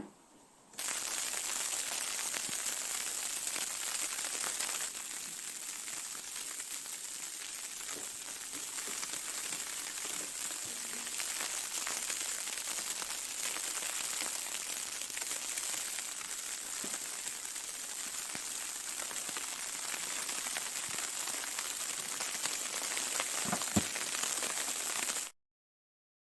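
Steady pattering hiss of falling snow, with scattered faint ticks, starting about a second in and cutting off suddenly near the end.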